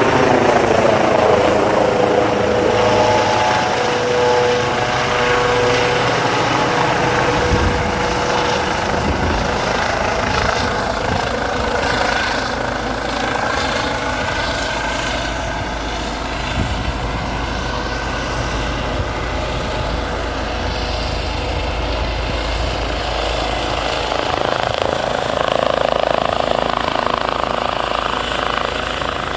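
Medevac helicopter flying low overhead, its rotor and turbine very loud and steady. A whining tone with several overtones stands out over the drone for the first eight seconds or so, then fades into the rotor noise.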